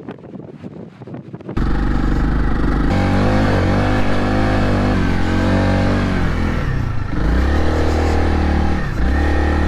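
Motorcycle engine running hard on an off-road ride, cutting in suddenly loud about a second and a half in. The revs rise and fall and dip twice near the end.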